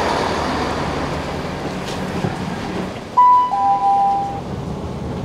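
Chiltern Railways diesel multiple-unit train running at the platform, a steady rumble and hiss. About three seconds in, an electronic chime sounds inside the carriage: a high note followed by a lower one, overlapping, lasting about a second.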